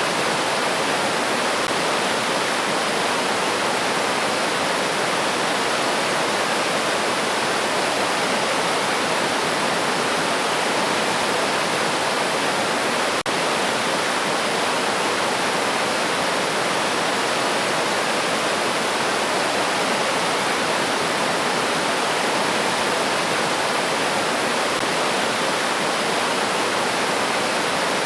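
River water rushing steadily in a dense, even wash of sound, with a split-second dropout about halfway through.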